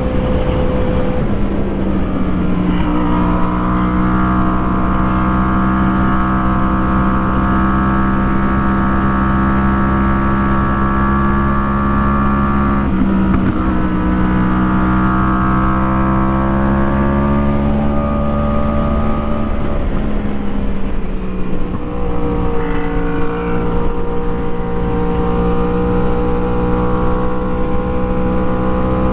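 Inline-four sport-bike engine pulling at road speed, heard from the riding motorcycle along with wind. It holds a steady pitch, with brief breaks and shifts in pitch shortly after the start, near the middle and about two-thirds through, where the throttle eases or the rider changes gear.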